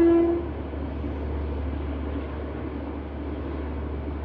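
A train horn's held note cuts off just after the start, leaving the steady noise of the train running past on the track.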